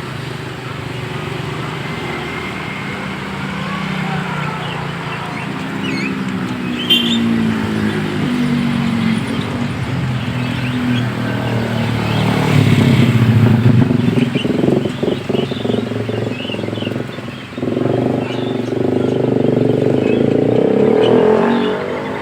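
Road traffic passing close by, engines rising and falling in pitch as vehicles go past, loudest in two passes around the middle and near the end. Small birds chirp faintly underneath.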